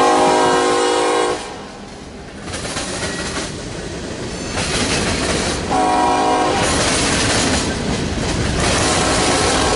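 Freight locomotive air horn sounding, a long blast that cuts off about a second and a half in and a short blast around six seconds in. Between and after the blasts comes the rumble and clatter of the passing train's wheels on the rails.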